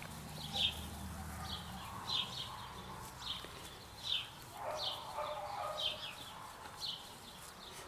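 Small birds chirping faintly: short high chirps, roughly one or two a second, over a low hum that fades out about two seconds in.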